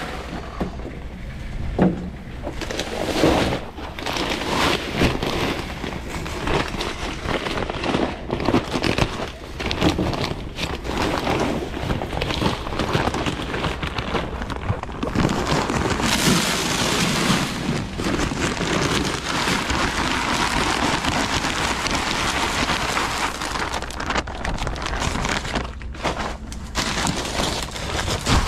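Rock salt pattering and hissing onto pavement as it is thrown from a BOSS push spreader, with strong wind buffeting the microphone in irregular gusts.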